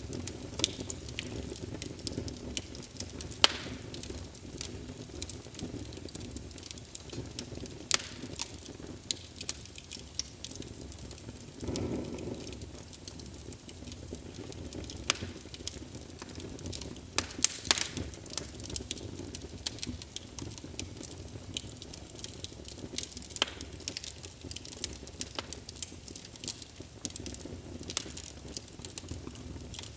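Wood fire crackling, with irregular sharp pops and snaps over a steady low rumble of burning, and a brief swell in the flames about twelve seconds in.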